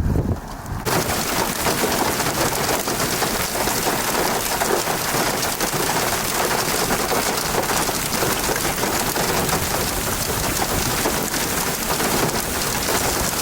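Heavy storm rain pelting down hard, a dense, even patter of countless drops that starts abruptly about a second in and holds steady.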